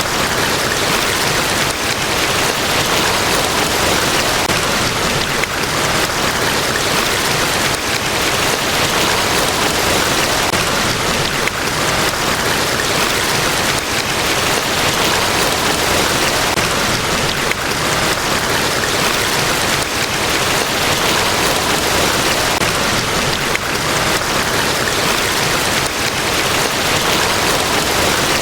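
Large waterfall pouring: a loud, steady rush of falling water.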